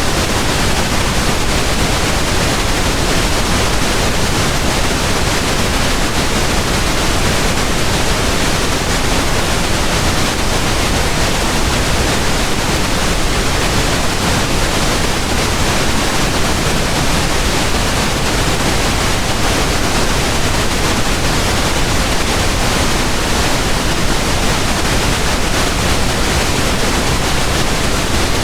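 Pink noise: a steady, even hiss spread across all pitches, a little heavier in the lows, unchanging throughout.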